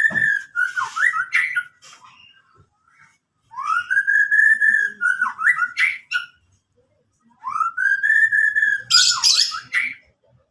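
White-rumped shama singing: phrases about three seconds long, each opening with a long clear whistle that rises and levels off, then a quick run of varied notes. The last phrase ends in a burst of harsh, scratchy notes near the end.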